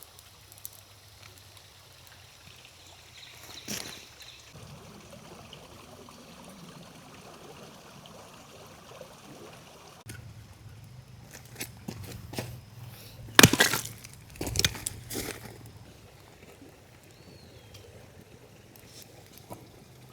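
Creek water running steadily, with a handful of sharp knocks and clatters about halfway through, the loudest one a little after the middle.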